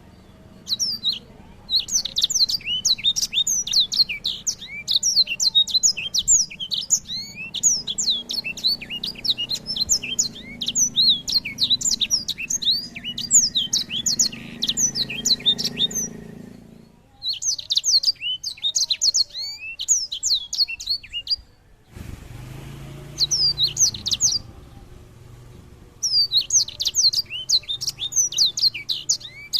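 Small songbird singing in long, rapid runs of quick high twittering notes, broken by short pauses, with a change in recording about two-thirds of the way in.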